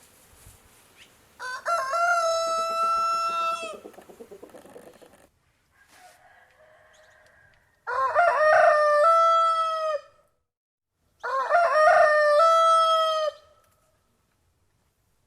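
A rooster crowing three times, each crow about two seconds long with a short wavering start that settles into a long held note.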